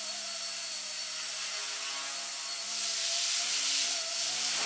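Blade mCP X BL2 micro RC helicopter hovering, its brushless motor and rotor blades giving a steady whine with a shh-like rotor hiss.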